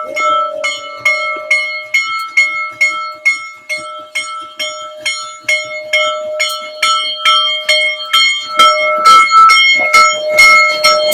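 A Union Pacific steam locomotive's bell ringing steadily, about three strokes a second, with the strokes coming thicker and louder near the end.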